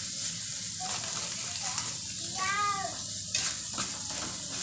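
Chili spice paste sizzling in hot oil in a metal wok as it is stirred, with a cat meowing once about two and a half seconds in, a single drawn-out call that rises and falls.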